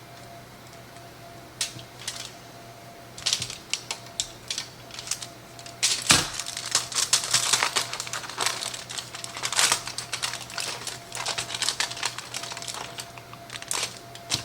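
Rapid, irregular clicks and taps of a knife cutting through a frozen layer cake on a platter, sparse at first and coming thick and fast from about halfway in, over a steady low hum.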